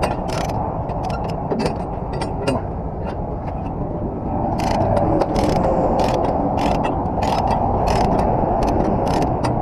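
Irregular sharp metallic clicks, a few a second, over a steady low mechanical rumble.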